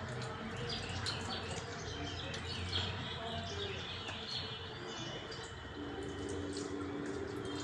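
Small birds chirping in quick, repeated short notes over a steady low hum.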